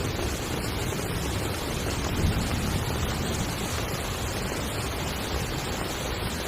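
Heavy rain falling steadily on a tent, a dense even hiss with a strong low patter. A brief louder low swell comes about two seconds in.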